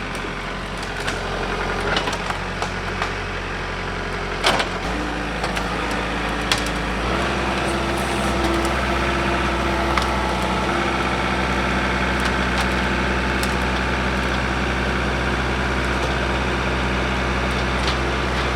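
John Deere 4052R compact tractor's diesel engine running, stepping up in speed about five seconds in and again about seven seconds in, then holding steady at the higher revs. There are sharp knocks and cracks of wood in the first few seconds.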